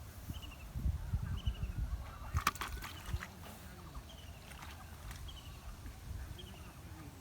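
A bird repeating a short, high call of a few quick falling notes, about once a second, over a low rumble. A brief cluster of sharp clicks comes about two and a half seconds in.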